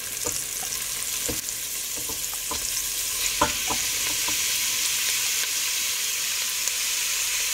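Sliced onions sizzling in hot oil in a pan, with scattered pops and crackles. Raw ground chicken is tipped into the oil, and the sizzle grows a little louder and fuller from about four seconds in.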